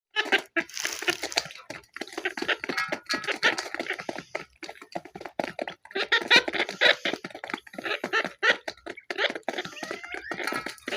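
Birds chattering and calling in a constant run of short, broken notes, with a few gliding calls near the end.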